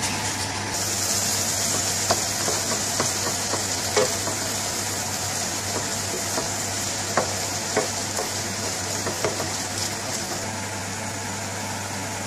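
Sliced onions frying in ghee in an aluminium frying pan, sizzling steadily, louder from about a second in. A wooden spoon stirs them, knocking against the pan a few times.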